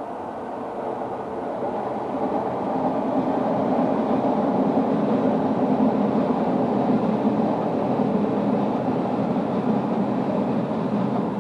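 Airbus A330-300 airliner's Pratt & Whitney jet engines, a loud steady rumble that swells to a peak about halfway through and then begins to fade as the aircraft passes.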